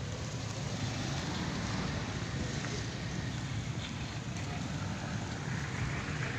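Steady outdoor road-traffic noise, with wind buffeting the microphone.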